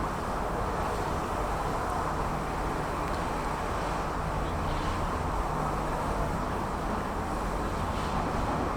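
Steady low rumble of outdoor urban ambience, like distant traffic, with no distinct events.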